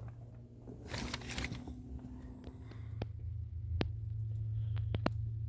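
A steady low hum with a brief rustle about a second in, then a few sharp, isolated clicks or knocks.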